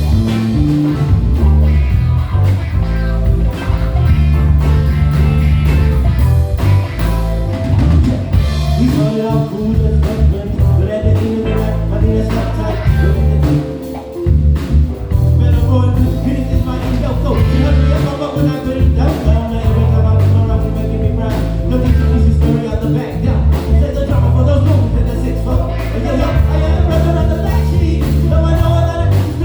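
Live band playing a bluesy groove, with a prominent electric bass line and drum kit under keys and a lead instrument. The band briefly drops out about halfway through, then comes back in.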